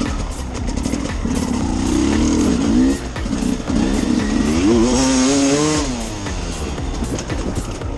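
Enduro motorcycle engine revving under throttle: a brief let-off about three seconds in, then the pitch climbs for a couple of seconds and falls away again.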